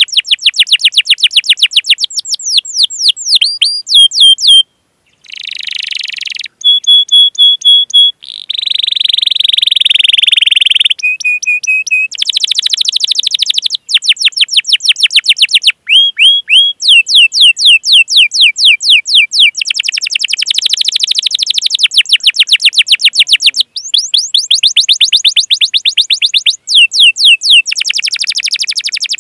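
Domestic canary singing a long, unbroken song of rapid rolling runs of repeated downward-sweeping notes. Between about four and twelve seconds in, the runs give way to a brief gap, buzzy phrases and short held whistles, and then the fast rolls resume.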